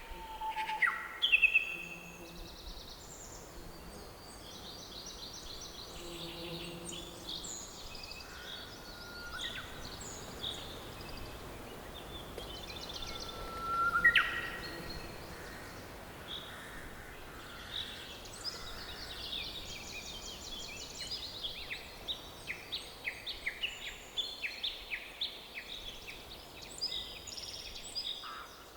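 Several birds singing and chirping over a faint steady background hiss. The loudest are sharp whistled notes about a second in and a rising whistle about halfway through, and quick repeated chirps crowd together near the end.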